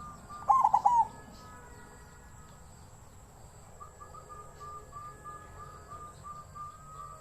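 Zebra dove cooing: a loud burst of several quick, falling coo notes about half a second in, then a softer run of rapid, evenly repeated notes from about four seconds in.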